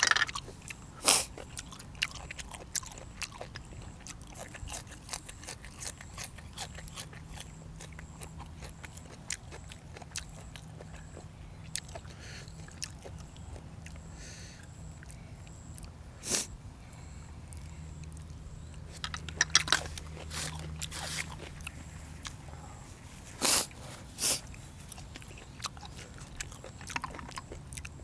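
Close-miked eating: a person biting and chewing crunchy food with many small crisp clicks, and a few louder knocks scattered through.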